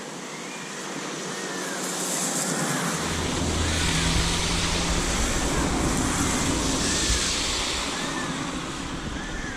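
A car passing on the wet, flooded road, its tyres hissing through the water as it builds up and then fades away.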